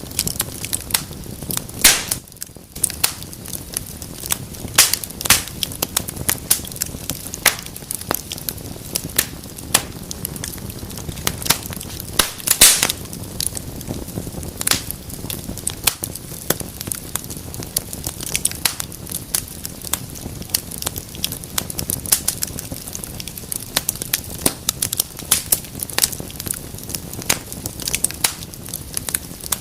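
Wood fire burning in a fireplace, crackling with frequent sharp pops over a steady low hiss of the flames.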